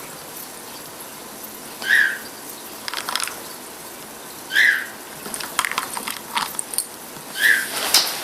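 Three short, high chirp-like animal calls about two and a half seconds apart, with light clicking and rattling between them.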